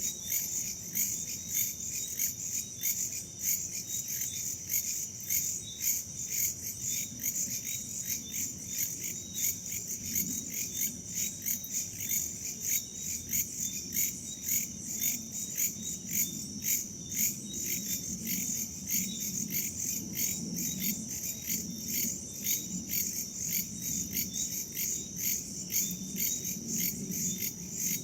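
Crickets and other insects chirping in a steady, rapidly pulsing chorus, several pulses a second, with a faint low rush of wind underneath.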